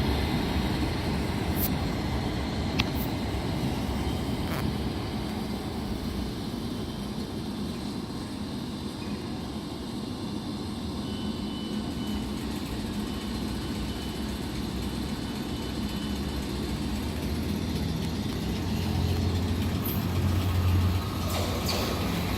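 Class 455 electric multiple unit running on the line, a steady rumble of wheels and traction with a few sharp clicks in the first few seconds. The low rumble grows louder near the end.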